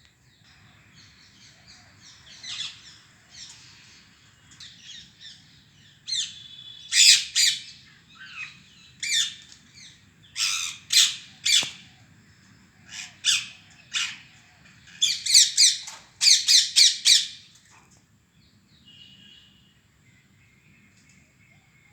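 Parrot squawking: bursts of short harsh calls, quieter at first, then a run of loud squawks in quick clusters through the middle, fading to soft chatter near the end.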